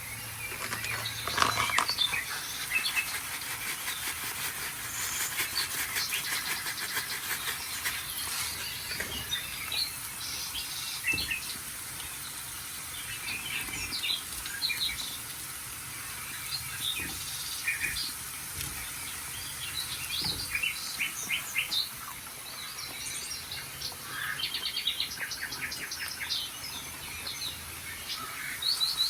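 Small birds chirping and calling, with many short overlapping chirps and quick trills.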